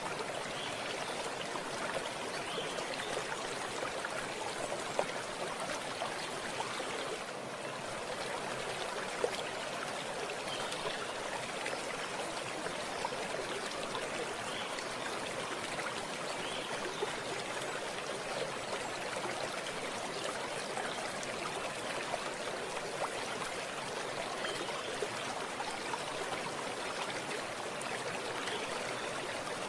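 Running water in a stream, flowing with a steady, even rush that doesn't change.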